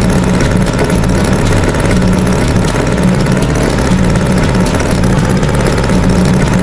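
Tractor engine running steadily, a loud, even engine sound effect with a pulsing low throb.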